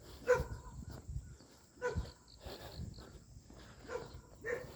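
A dog barking, four single barks spaced out over a few seconds.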